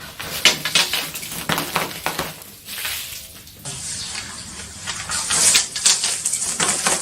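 Sharp clinks and clatter, then about halfway through a steady high fizzing hiss with crackles, Coca-Cola foaming up over Mentos.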